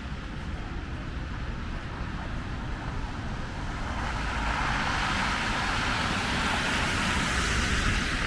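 Street traffic: a steady low rumble of vehicles, with the tyre hiss of a passing vehicle swelling from about four seconds in and peaking near the end.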